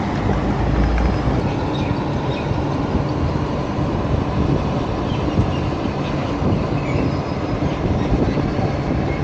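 Steady rumbling of a rail vehicle running along its track, heard from inside the car.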